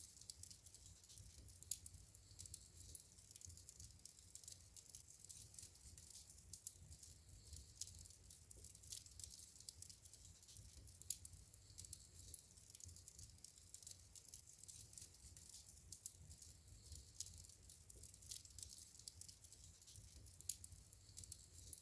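Burning wood in a fireplace crackling softly: a constant patter of small, sharp crackles and ticks, with a few louder pops, over a faint low rumble.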